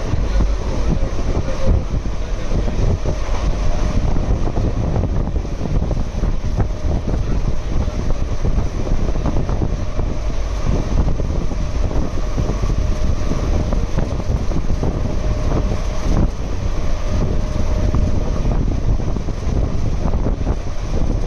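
Passenger train coach running at speed, heard at its open door: a steady rumble with rapid clatter of wheels on the rails, and wind buffeting the microphone.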